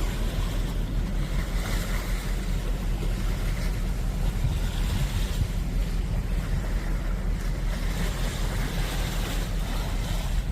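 A boat under way at sea: a steady low engine rumble, with rushing water and wind noise on the microphone swelling and fading.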